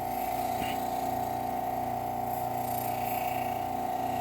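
Bench grinder with a Scotch-Brite wheel running steadily with a constant hum, a rusty knife blade held against the wheel to buff off the rust.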